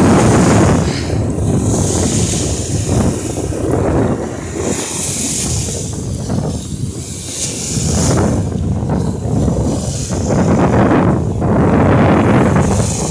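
Wind buffeting the microphone over surf washing onto the beach, a loud rushing noise that swells and eases.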